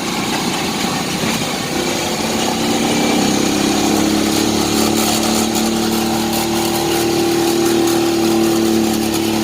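Motorcycle engine of a tricycle running under way, with road and wind noise; a steady engine note comes up about two seconds in and holds.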